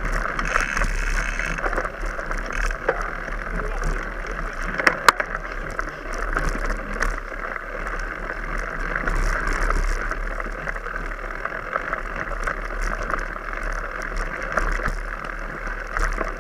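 Mountain bike being ridden over rough ground: continuous tyre and rattle noise with scattered clicks and knocks, one sharp click about five seconds in.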